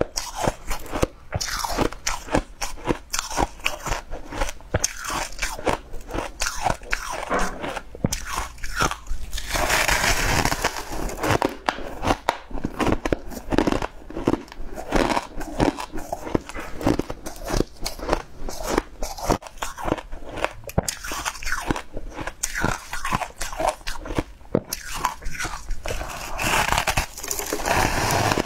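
Close-miked biting and chewing of a crunchy, porous white block: dense, irregular crunches with many sharp cracks a second, one after another.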